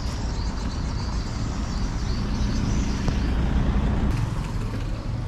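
Motorcycle engine running under way, with road and wind noise; it grows louder through the middle and eases off about four seconds in.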